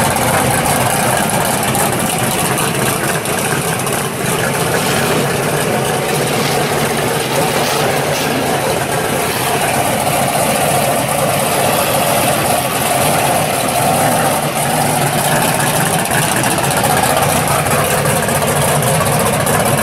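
Engine of a Dodge drag car on slicks idling steadily as the car rolls slowly off.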